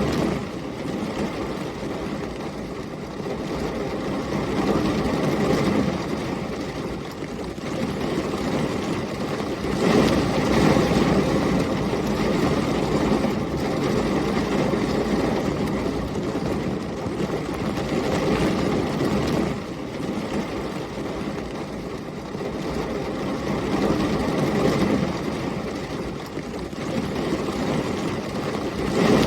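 Heavy rain with a low storm rumble of wind and thunder that swells and eases every few seconds, loudest about ten seconds in.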